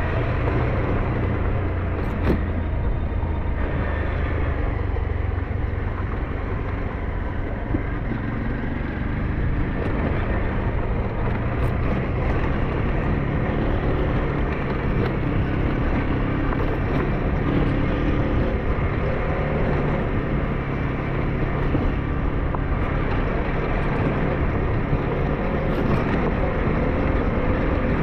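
SYM NH-T 200 motorcycle engine running steadily under way, with wind and road noise and a few brief knocks; the engine note rises a little near the end.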